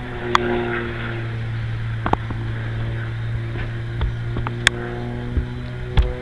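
Propeller engine of an aerobatic biplane droning overhead as a steady low hum. Its higher engine note fades in the middle and comes back near the end, with a few sharp clicks along the way.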